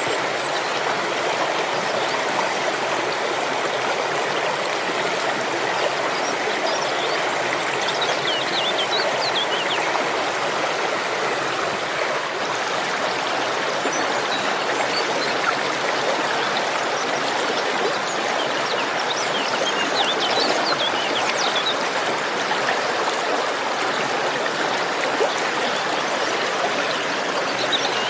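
A stream flowing steadily, with small birds chirping faintly over it in short bouts a few times.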